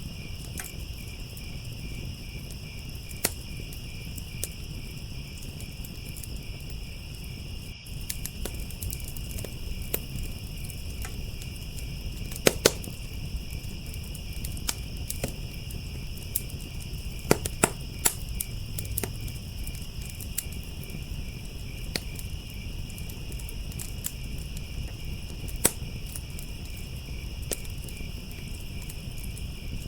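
Wood fire crackling, with scattered sharp pops and a few louder snaps, over a steady chorus of crickets chirping.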